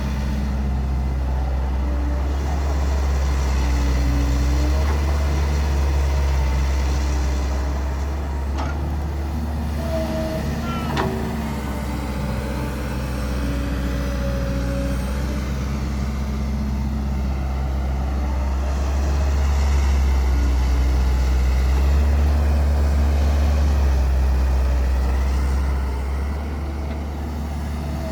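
Caterpillar E120B excavator's diesel engine running, its note swelling and easing twice as the machine works, with one short sharp knock about eleven seconds in.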